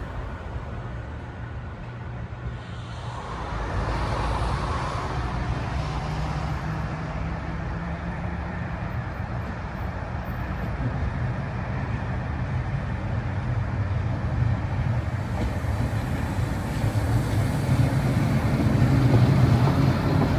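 Train running past, a continuous rumble with a steady low drone that swells a few seconds in and grows to its loudest near the end.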